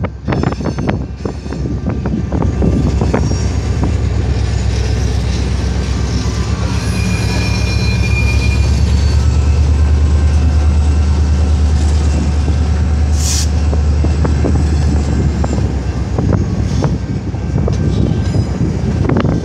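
Freight train passing through a road crossing: the EMD diesel locomotive ELS 501 drones loudly as it goes by, loudest about midway, then fades as the covered hoppers and boxcars roll past with wheels clicking over the rails. A brief high squeal comes about 7 s in, and a short sharp hiss about 13 s in.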